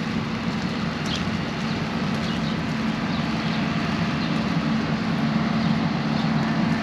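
Steady rain falling, with a continuous low drone of traffic underneath.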